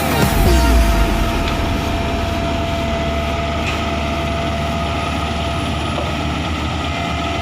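Komatsu PC200 hydraulic excavator's diesel engine running steadily under work.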